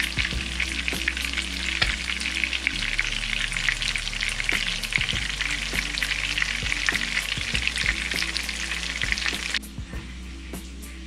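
Trout cakes frying in shallow oil in a skillet: a steady sizzle with dense crackling that cuts off suddenly about nine and a half seconds in, leaving soft background music.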